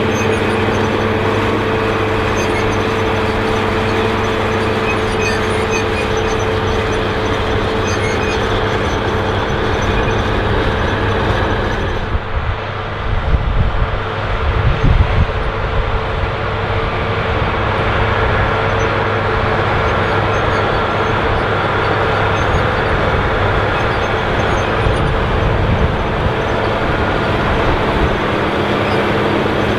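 Allis Chalmers 7080 tractor's turbocharged six-cylinder diesel working steadily under load, pulling a chisel plow. The engine note drops back for a few seconds about twelve seconds in, with an uneven rumble, then returns to its steady pull.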